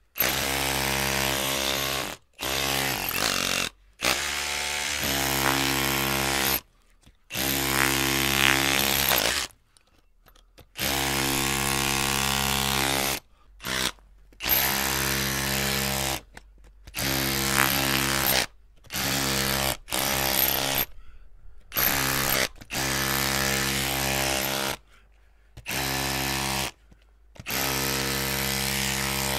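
Electric drill running in repeated bursts, its motor whining for one to three seconds at a time and then stopping briefly, about a dozen times.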